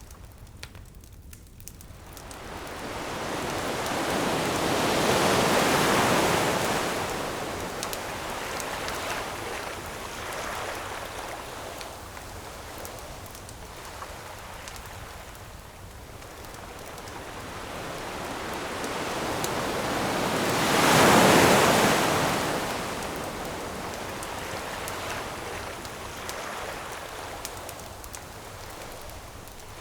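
Two ocean waves surge onto the shore, each swelling over a few seconds and washing back out, about fifteen seconds apart. A wood campfire crackles faintly underneath.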